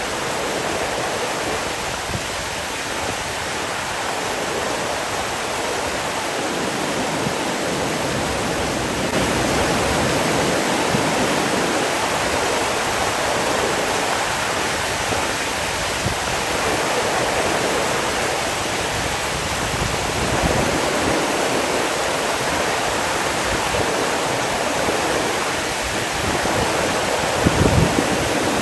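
Steady rush of flowing water, a little louder from about nine seconds in, with a brief low thump near the end.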